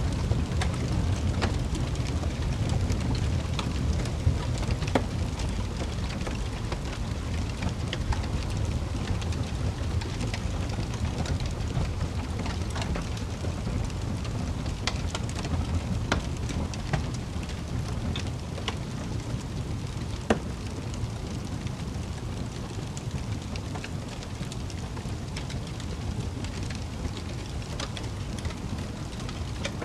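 Wood fire burning in a fireplace: a steady low rumble of flames with irregular crackles and pops, a few louder snaps scattered through.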